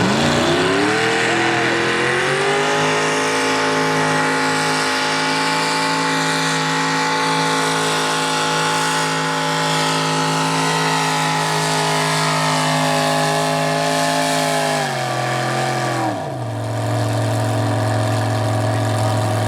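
Mini rod pulling tractor's alcohol-injected big-block V8 revving up over about two seconds and holding at high revs through a pull. Near the end it drops quickly back to a steady idle, about sixteen seconds in.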